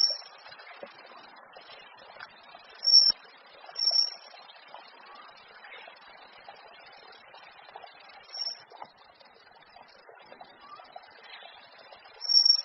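A bird calling: short, high whistled notes, five of them at irregular gaps, over a faint, steady background of other outdoor sound.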